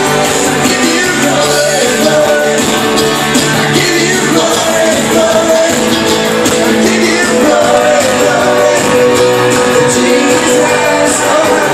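Live worship band playing a contemporary worship song in a large room, full band with guitar and voices singing along, in an instrumental stretch between sung lines.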